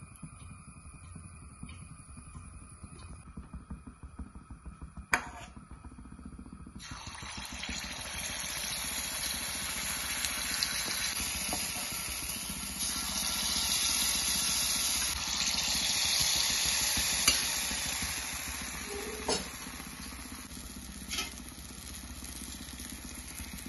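Unniappam batter sizzling in hot oil in the cups of a unniappam pan. The sizzling starts suddenly about a third of the way in, grows louder, then eases toward the end, with a few sharp clicks along the way.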